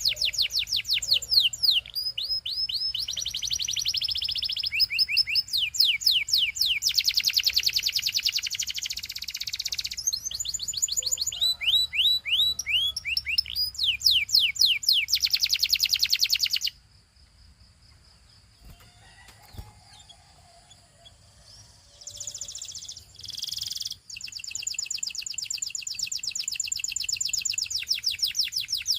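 Canary singing in fast trills and rapid runs of sweeping notes. The song breaks off at about the middle for several seconds of near quiet, then comes back with two short bursts and another long trill near the end.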